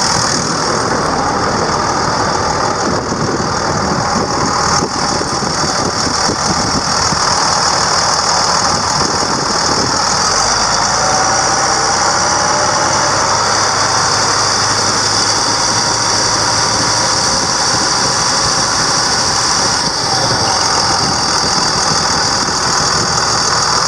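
International DT466 turbo diesel engine running steadily, with a constant high-pitched whine above the engine note.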